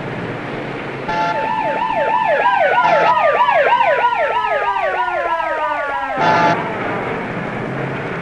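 Emergency vehicle siren wailing in rapid up-and-down sweeps, about three a second, its pitch sliding lower overall, then cutting off abruptly about six seconds in. Underneath is steady traffic noise with short car-horn toots.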